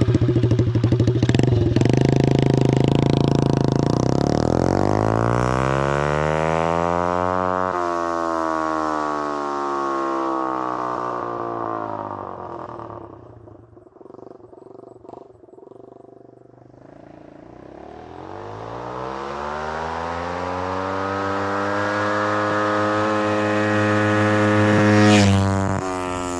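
Pit bike's small single-cylinder engine running with its muffler fallen off, an open, extremely loud exhaust note. It is loud at first, fades with its pitch sliding down until it is much quieter about halfway through, then grows louder again with rising pitch and is loudest near the end.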